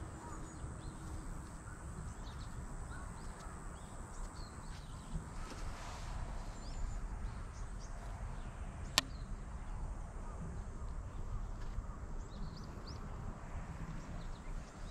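Small birds chirping in short scattered calls over a low wind rumble, with one sharp click about nine seconds in.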